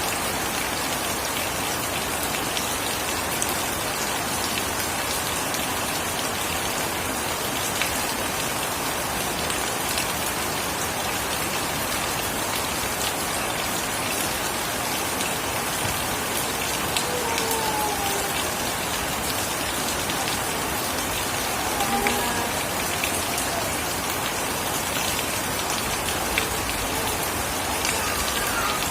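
Steady heavy rain falling, a dense even hiss with scattered individual drops ticking through it.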